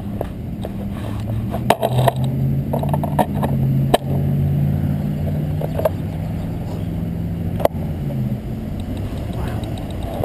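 Wind and road rumble on a moving bicycle, with a motor vehicle's low engine drone alongside for most of the time, and a few sharp clicks and knocks.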